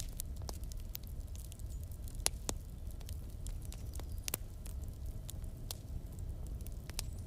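Wood fire burning in a fireplace: a steady low rumble with scattered sharp crackles and pops from the burning logs, two louder pops about two and four seconds in.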